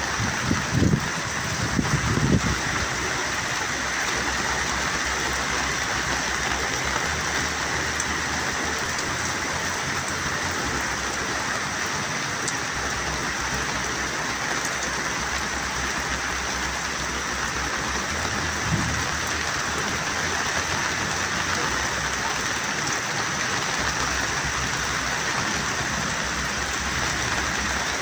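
Heavy rain falling steadily, an even dense hiss, with a few brief exclaimed vocal sounds in the first couple of seconds.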